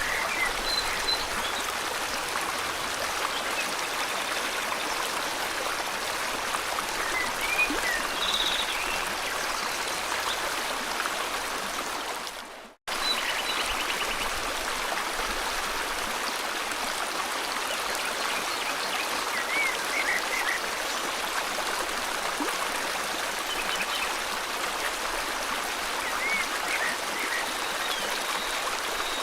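A river flowing steadily, with scattered short bird chirps and a few trills over it in a tropical forest. About 12 seconds in, the sound fades to silence for a moment and comes back abruptly.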